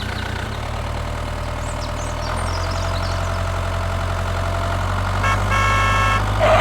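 Vehicle engine idling steadily with a low, even hum that grows slightly louder about two seconds in. A brief high-pitched tone sounds near the end.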